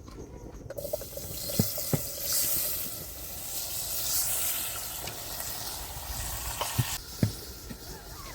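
A steady hiss that starts about a second in and stops abruptly near the end, with a few sharp knocks along the way.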